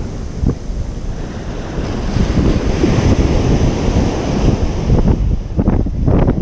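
Ocean surf washing onto a beach, a continuous rush that swells louder about two seconds in as a wave breaks. Wind buffets the microphone, adding a low rumble.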